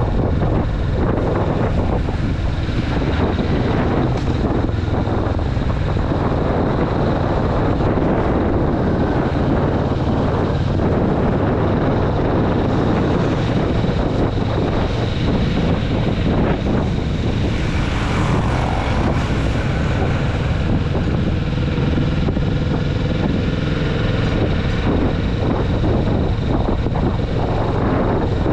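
Kawasaki Vulcan S's 649 cc parallel-twin engine running at a steady cruise, the bike new and in its break-in period, with wind noise on the microphone.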